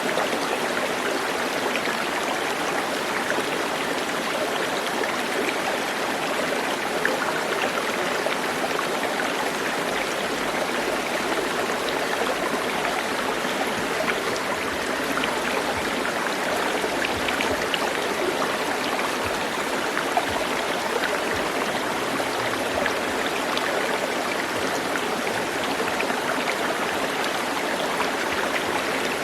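A flowing stream: a steady rush of water with small splashes scattered through it.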